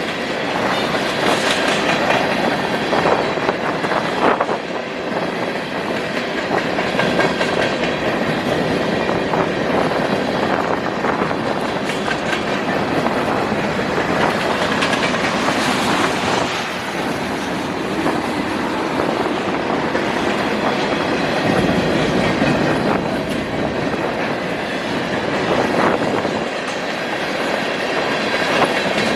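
Freight cars of a manifest freight train rolling past close by: a steady rumble of steel wheels on rail, with scattered short clanks and clicks.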